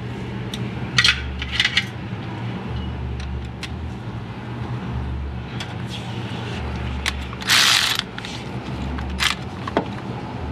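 Hand ratchet clicking in short spurts, working a tight glow plug on a Duramax diesel engine, over a steady low hum.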